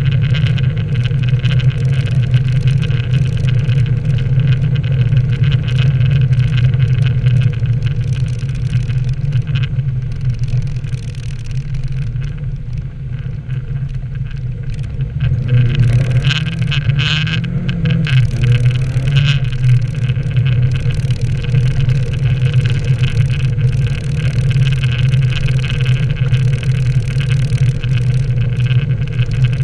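Nissan 240SX (S13) engine running while driving: a steady drone over a constant hiss. It eases off about twelve seconds in, then picks back up with a rising rev a few seconds later.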